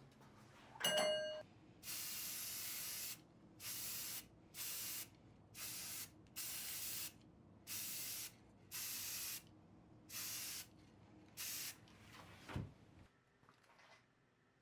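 About ten short bursts of hissing spray in a row, roughly one a second, each half a second to a second long. Just before them comes a single ringing metallic ding, the loudest sound, and near the end a short low thump.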